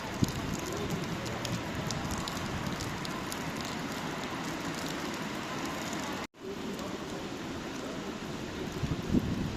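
Rain falling, a steady hiss scattered with faint drop ticks, over a low rumble. The sound cuts out for a split second about six seconds in.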